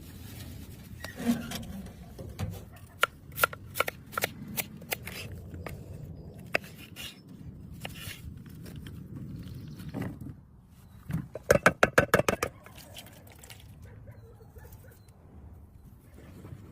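Food preparation handling sounds at a camp cooking setup: scattered clicks and taps, then a quick run of about eight sharp knocks near the middle.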